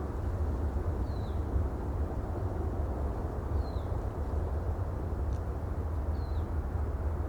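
Steady sea ambience, an even rushing noise with a deep rumble underneath. A bird gives a short falling chirp three times, about every two and a half seconds.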